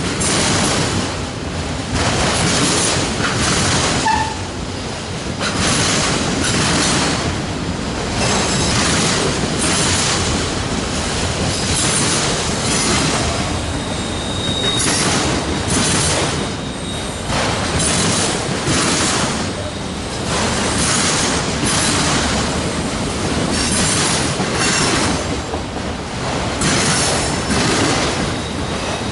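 Freight train cars rolling past, a steady rumble of wheels on rail that swells and eases in a repeating rhythm about once a second as each car and wheel set goes by. A brief high wheel squeal comes about halfway through.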